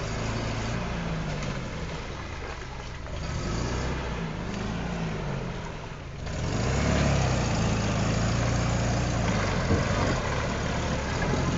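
Toyota pickup engine revving up and down as the truck drives through a mud hole, getting louder from about six seconds in.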